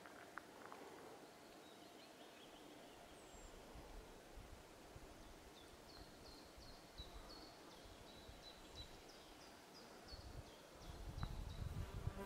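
Near-silent outdoor quiet with faint birdsong: a small bird repeating short high chirps, about three a second for a few seconds. A faint low rumble comes near the end.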